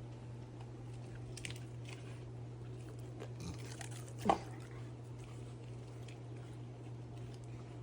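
Dogs chewing and crunching raw food, with scattered small crunches over a steady low hum. About four seconds in there is one short, sharp, louder sound.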